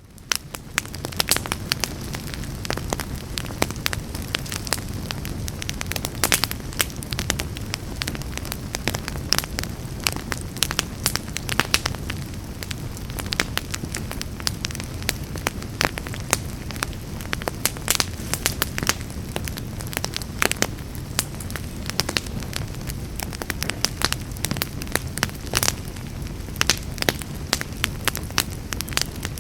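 Wood fire burning in a fireplace: a steady low rumble of flames under constant crackling and sharp pops. It fades in over the first second.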